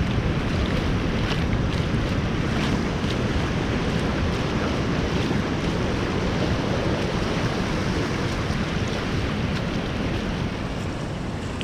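Surf and rushing water as a strong incoming tide pushes from the sea into the lagoon: a steady, dense rush, with wind buffeting the microphone.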